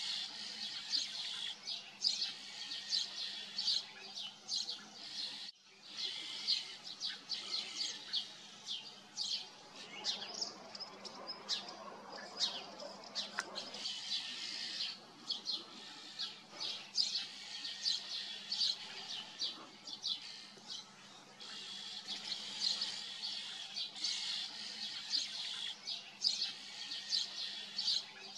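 Small birds chirping, with short high calls repeating irregularly several times a second, and a momentary dropout about five seconds in.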